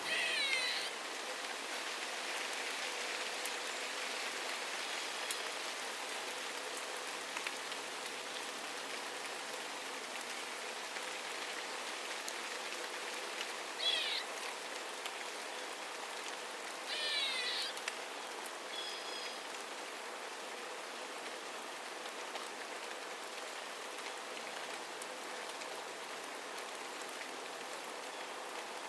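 Steady rain falling, with a bird calling over it three times: once at the start, once about halfway through, and once a few seconds later. Each call is a quick run of short sliding notes.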